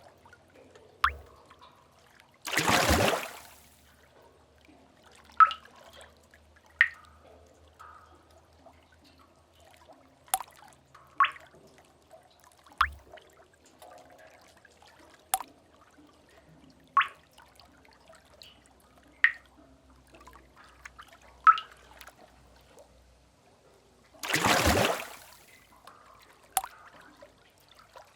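Cave water drips: single drops plinking one at a time at irregular intervals of a second or two, each with a short ringing tail. Two brief loud rushes of water break in, one about three seconds in and one near the end.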